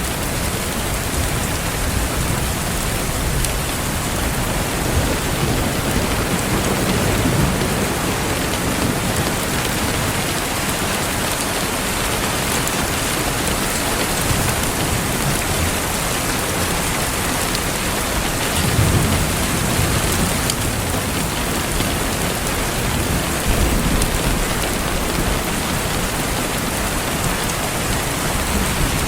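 Steady rain falling, an even hiss of drops on a surface, mixed with the crackle of a wood fire in a fireplace, with a few slightly louder moments.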